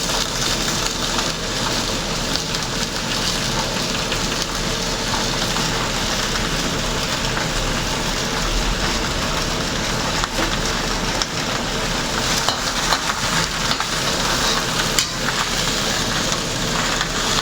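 Food sizzling steadily in hot oil in a pan during stir-frying, with a few sharp clicks near the end.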